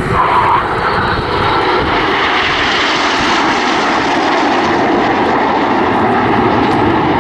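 Jet noise from a formation of RAF Red Arrows BAE Hawk T1 jets passing the crowd: a steady broad rush whose hiss grows brighter about two to three seconds in and then holds.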